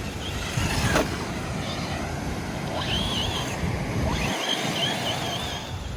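Wind buffeting the microphone on the beach, with the wavering high whine of the Traxxas Hoss RC truck's electric motor coming and going with the throttle, twice in the second half.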